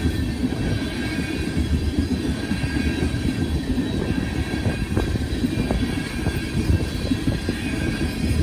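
Freight train of tank cars rolling past: a steady rumble of wheels on the rails, with scattered short clicks and faint thin high-pitched wheel squeal.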